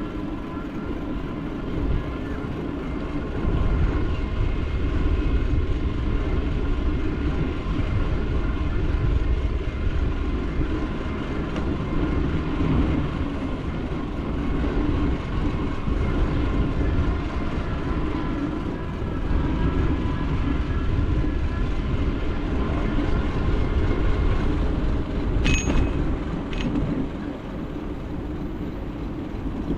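Riding a bicycle with the camera rolling: wind buffeting the microphone and tyre rumble on the road, with a faint steady whine above it. Two brief sharp clicks come near the end.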